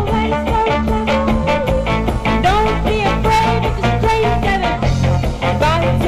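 A live band playing: steady drum beat and bass under bending melody lines, with no break.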